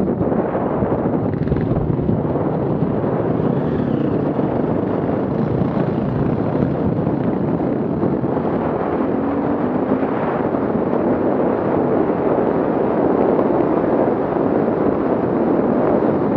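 Off-road vehicle engine running steadily, mixed with wind buffeting the microphone.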